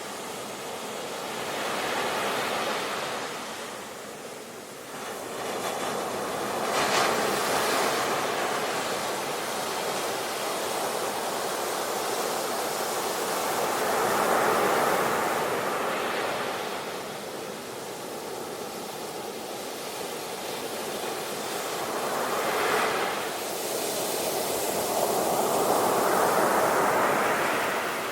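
Ocean waves breaking and washing up the shore. The surf swells and recedes in slow surges, with several waves peaking over the stretch.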